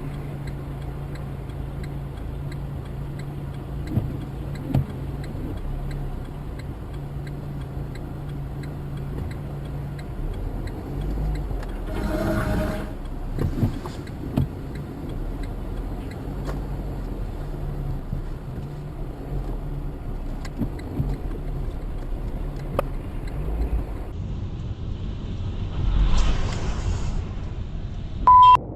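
A motor vehicle driving, with steady engine and road noise. A few short knocks come in the first few seconds, a louder rush of noise about twelve seconds in and another near the end, and a short, loud high beep just before it ends.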